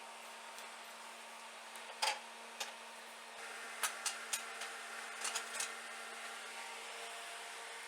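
A steady hum with a scattering of sharp clicks and knocks: one about two seconds in, then a run of them between about four and six seconds in.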